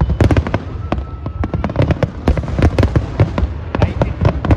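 Fireworks going off in a dense, continuous barrage: many sharp bangs and pops overlapping, several a second.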